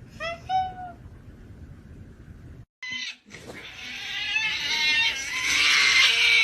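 A domestic cat gives a short meow, then after a break a long, loud drawn-out yowl that grows louder and falls in pitch at the end.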